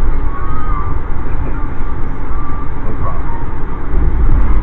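Steady, loud rumble of a moving Amtrak passenger train, with faint voices in the background.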